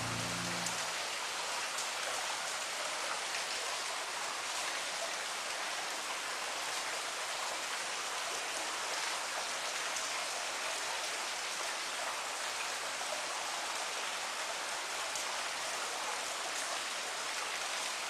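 Steady rain falling, an even hiss with faint scattered drop ticks. Recorder notes end about a second in, leaving the rain alone.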